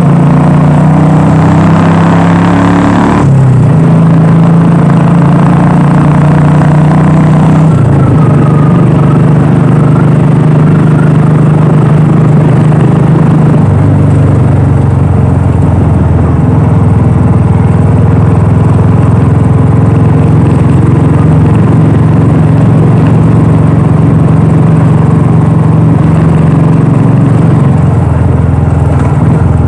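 Royal Enfield Classic 350's single-cylinder engine and exhaust running loudly while riding. The engine note changes about three seconds in and again about eight seconds in, then holds steady.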